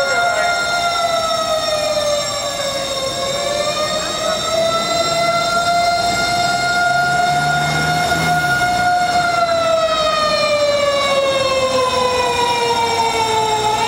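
Japanese fire engine siren wailing on an emergency run: a slow, drawn-out tone that dips about three seconds in, rises again and holds, then slides slowly down near the end.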